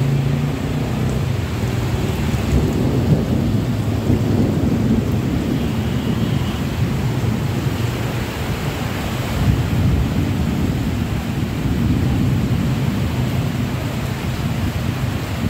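Heavy rain pouring down onto a flooded street, a dense, steady rush over a deep low rumble.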